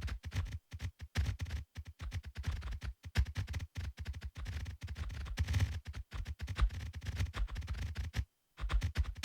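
Rapid, irregular clicks and knocks, several a second, with a brief pause near the end.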